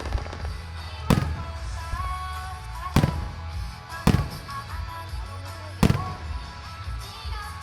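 Aerial fireworks shells bursting: four sharp booms spread over a few seconds, with music playing underneath.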